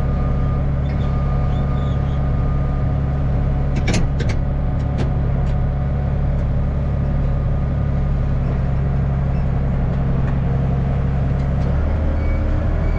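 Tractor engine running steadily, with a few sharp clicks about four seconds in; its note shifts about twelve seconds in.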